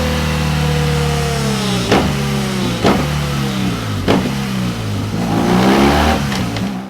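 BMW R1200GS boxer-twin engine breathing through a Delkevic X-Oval titanium exhaust, held at high revs, then falling with three sharp cracks from the exhaust. The revs rise again near the end before the sound fades out.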